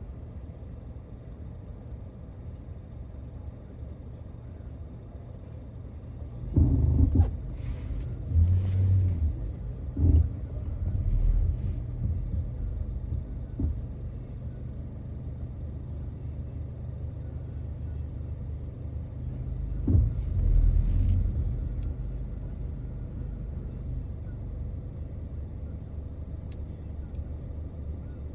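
Car driving on snowy city streets: a steady low rumble of engine and road noise, with a few louder thumps and short hissing swooshes about seven to twelve seconds in and again around twenty seconds.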